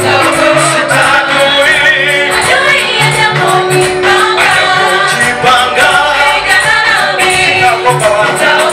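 Choir of voices singing a gospel praise song over a band, with a bass line and a steady drum-and-cymbal beat.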